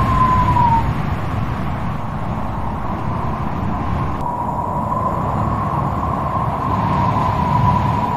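Strong wind blowing with a deep rumble and a whistling howl at one slightly wavering pitch. The howl drops out about a second in and comes back about four seconds in.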